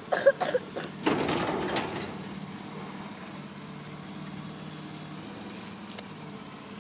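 Garbage truck's diesel engine idling with a steady low hum. A few sharp knocks and a brief rush of noise come in the first two seconds.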